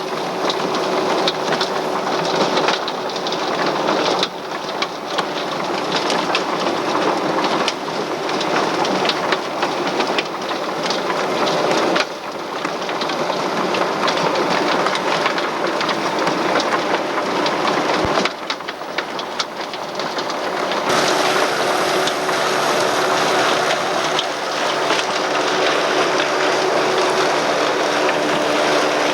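Farm machinery running: a dense, continuous rattling clatter with a faint steady hum, changing abruptly in character about four, twelve, eighteen and twenty-one seconds in.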